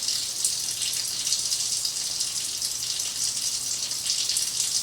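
Kitchen sink faucet running steadily, an even hiss of water into the sink, left on while the hot water comes up to temperature.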